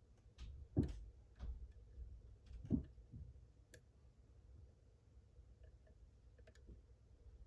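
Faint, scattered metal clicks and light knocks of a lock pick and tension wrench working the pins of a high-security pin-tumbler lock cylinder, with the two louder knocks about a second in and near three seconds.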